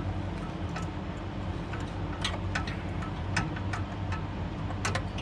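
Irregular small clicks and taps as the oil drain plug is fitted by hand into the oil pan, over a steady low hum.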